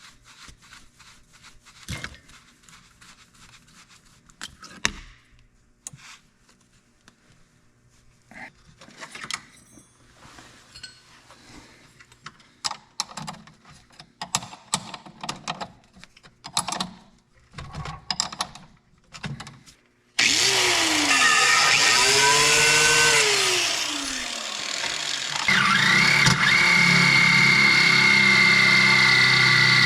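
Steam pressure washer being started: after scattered light clicks and knocks, the machine kicks in suddenly about two-thirds of the way through and runs loudly, its pitch sweeping up and down, then settles into a steady run with a high whine over a low rumble.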